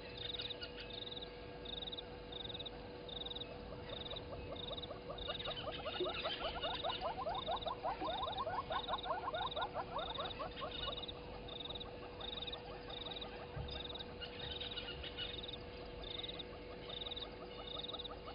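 Frogs calling: a short high chirp repeats about twice a second throughout, and a louder run of rapid pulsed calls comes in the middle.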